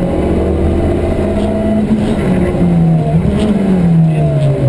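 Turbocharged 1600 cc four-wheel-drive rally car's engine pulling hard, heard from inside the cabin. The revs hold steady, dip and climb back about three seconds in, then fall away near the end as the car slows.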